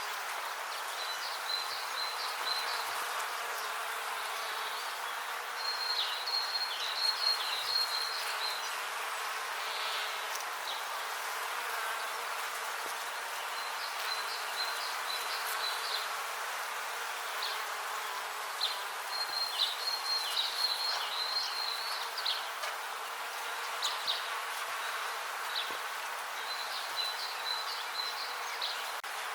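Bees buzzing steadily, with a high, rapid chirping that comes in short bursts every few seconds.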